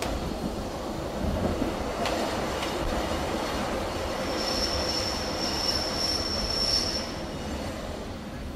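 Running noise of a BLS passenger train heard from inside the carriage: a steady rumble of wheels on track with a couple of sharp rail clicks about two seconds in. From about four seconds in, a high steady wheel squeal sounds for nearly three seconds, then fades.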